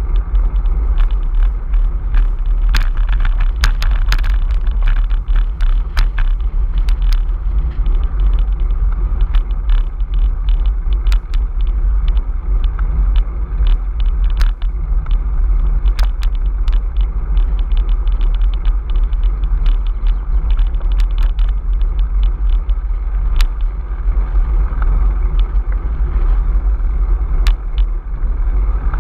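Strong wind buffeting the microphone: a loud, continuous low rumble with scattered crackles.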